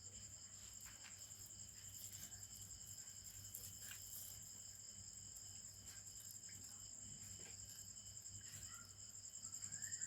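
Faint, steady high-pitched trilling of crickets, with a low hum beneath.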